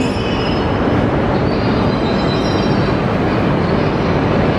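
Tohoku Shinkansen E5-series train at the platform, a loud, steady rumble and hiss with faint high squeal tones about halfway through.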